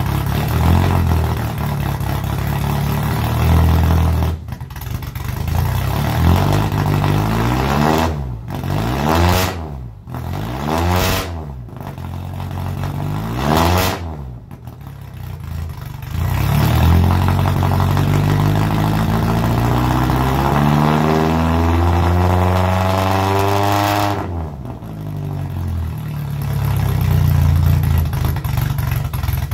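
1968 Datsun Roadster's four-cylinder engine running through a straight-pipe exhaust with no muffler. It idles, is revved up and back down about three times in quick succession, then is held at a higher speed for several seconds before falling back to idle.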